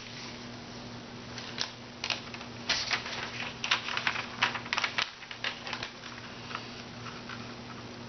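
A sheet of paper being folded and creased by hand: irregular crisp crackles and rustles, busiest in the middle and sparser near the end.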